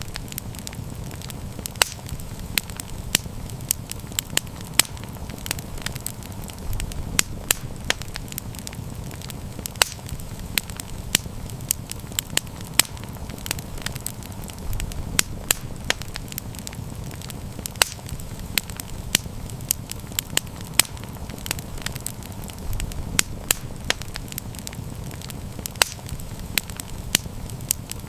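Wood fire crackling: frequent sharp pops and snaps, several a second, over a steady low rumble of the flames.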